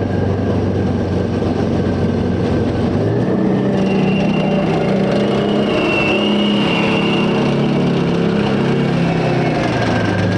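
Type 74 tank's diesel engine running loud. About three seconds in its pitch rises as it revs up, and a high whine rides over it for a few seconds in the middle.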